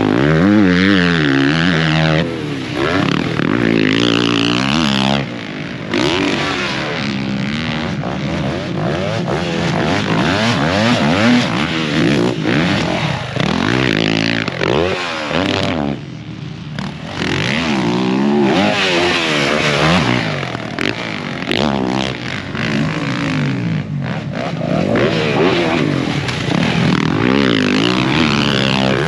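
Several dirt bike engines revving up and down over and over, their pitch rising and falling every second or two as the bikes run the track, with overlapping engine notes from more than one bike.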